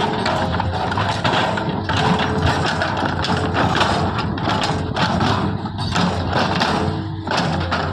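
JCB 3DX backhoe loader's diesel engine running steadily under load, with a continuous mechanical clatter and knocks from the machine working.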